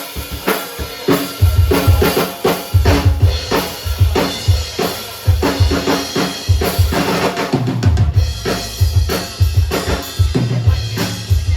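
Drum kit played live: a busy beat of bass drum and snare hits with cymbals, joined by some held low bass notes, stopping suddenly at the end.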